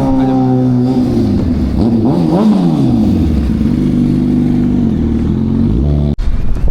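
A vehicle engine running loud and changing pitch, revving up and easing off, then holding steady. The sound cuts out abruptly about six seconds in.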